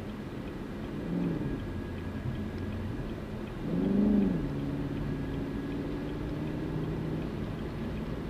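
Car engine and road rumble while driving. The engine's pitch swells up and falls back twice: briefly about a second in, then louder around four seconds in.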